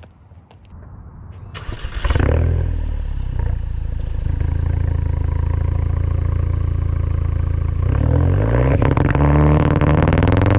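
Big-turbo 2017 VW Jetta GLI's engine starting about two seconds in and running steadily, then revving up and down from near the end.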